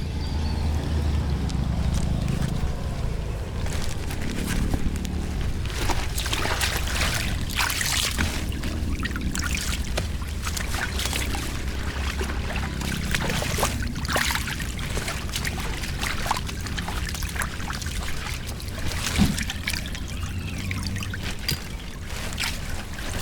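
Flood water pouring and trickling through a drain grate, with many short sharp noises in the middle stretch.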